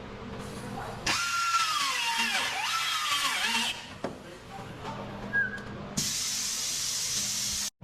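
A handheld power tool runs in a burst of about two and a half seconds, its whine sagging and wobbling in pitch as it works against the panel. A second, steady hissing burst of under two seconds near the end cuts off abruptly.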